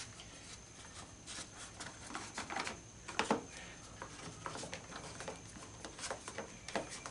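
Irregular clicks, taps and knocks of hand tools and parts being handled while a scrap prop is taken apart at a screw, with a louder knock about three seconds in.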